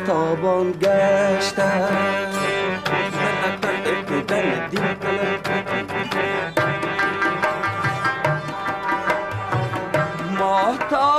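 Live Afghan ensemble music: an instrumental passage of a Dari song, with melodic instruments over a steady hand-drum rhythm and a sliding melodic line near the end, just before the singing resumes.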